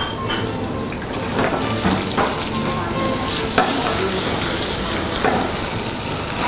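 Sliced red capsicum and red onion sizzling as they fry in oil in a hot pan over a gas burner, with a few short knocks of the pan and utensil.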